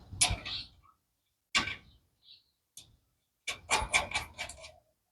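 Metal shock-absorber parts and tools being handled: a few separate knocks and clanks, then a quick run of about eight clicks.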